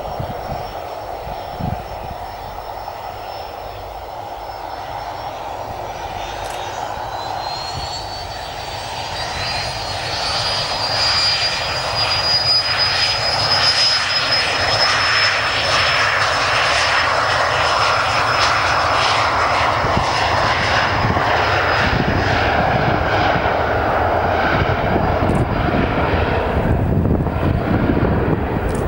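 Cessna Citation CJ1 business jet's twin turbofan engines with a high whine that rises in pitch about seven seconds in as the engines spool up. The jet rush then grows louder and holds steady.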